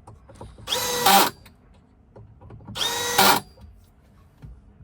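Cordless power drill driving a screw in two short runs, each about half a second long, whining up quickly in pitch and then holding steady. A few faint clicks and knocks of handling come between the runs.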